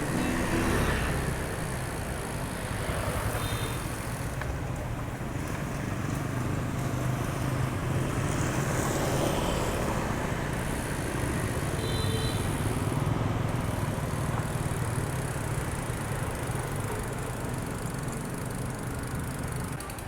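Steady road traffic noise from passing cars and motorbikes.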